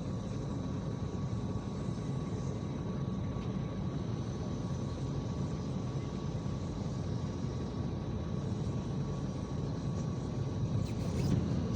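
IVECO Crossway 13M PRO city bus underway, heard from inside the cabin: a steady engine and road rumble with faint, steady high whines above it.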